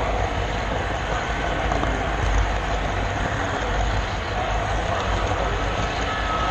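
Model railroad camera car rolling along the track, with a steady rumble and rattle of its wheels on the rails picked up by the GoPro mounted on it.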